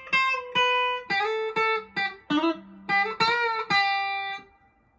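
PRS SE McCarty 594 electric guitar, bridge pickup split to single-coil, played clean through a miked Vox AC10 amp: a lead line of picked single notes with a bend or two, ending on a held note that rings and fades out.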